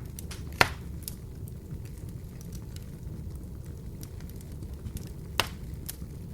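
Open wood fire in a fireplace burning with a steady low rumble and light crackling, and two sharp, loud pops, one about half a second in and one near the end.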